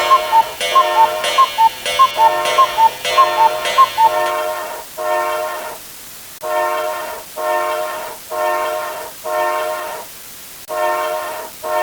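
Sound-effect clip of repeated horn-like blasts, roughly one and a half a second. For the first four seconds they are layered with a rapid electronic alarm-clock beeping, then they go on alone, pausing briefly twice.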